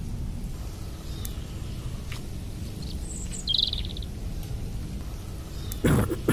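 A wild bird gives a short, high, rapid chirp a little past the middle, over a steady low outdoor rumble. Near the end comes a loud, sudden burst of noise.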